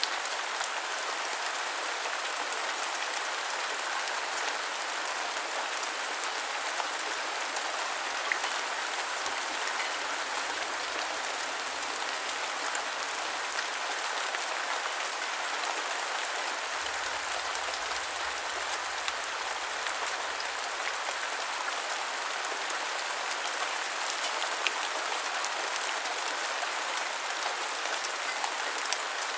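Steady rain falling, an even hiss with scattered crisp drop ticks.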